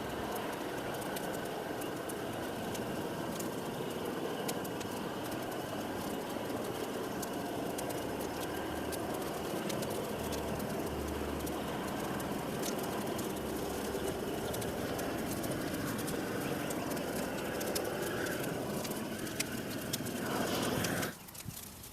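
Large brush and stump pile burning: a steady rush of flames with frequent sharp crackles and pops, cutting off abruptly near the end.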